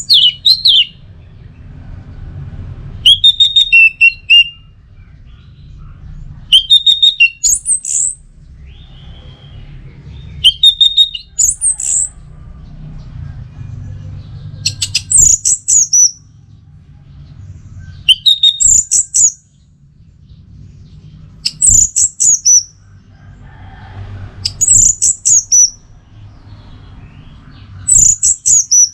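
Orange-headed thrush singing: short, high, rapid phrases of quick notes, each about a second long, repeated about every three to four seconds over a low background rumble.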